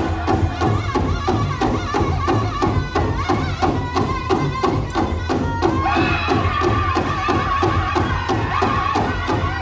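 Powwow drum group singing over a steady unison beat on a large bass drum, about three strokes a second. The voices jump to a higher, held pitch about six seconds in.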